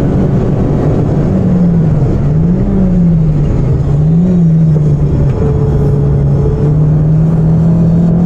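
Inside the cabin of a 2001 Citroën Saxo VTS 16V, its 1.6-litre sixteen-valve four-cylinder engine drops in revs under hard braking from high speed, with two short rises in revs about two and a half and four seconds in as it changes down. It then holds a lower, steady note through a slow corner, over constant road and tyre noise.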